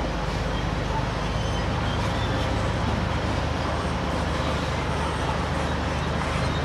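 Diesel engine of heavy construction machinery running steadily, a constant low drone with no clear change in load.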